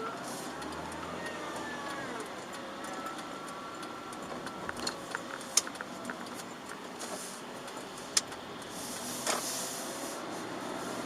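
Chevrolet Aveo 1.4 petrol car driving on wet roads, heard from inside the cabin: a steady engine and tyre noise. Around the middle come a quick run of sharp clicks and knocks, with another click and a short hiss later on.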